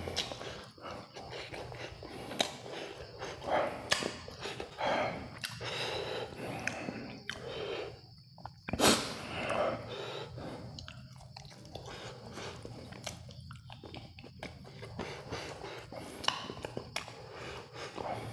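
Close-miked eating sounds: a person biting and chewing KFC fried food, irregular crunches and mouth clicks with one sharp, loud click about nine seconds in.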